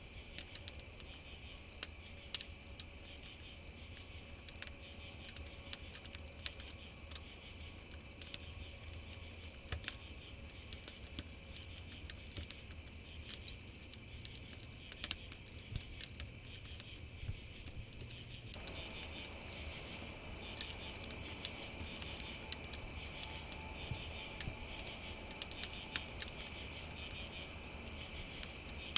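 A steady chorus of crickets chirping over a crackling campfire, with sharp pops and snaps scattered throughout. About two-thirds of the way through, a soft low hiss rises slightly beneath them.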